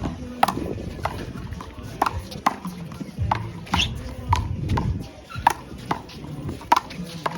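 Handball rally: sharp smacks of the rubber ball struck by hand and rebounding off the wall, about every half second.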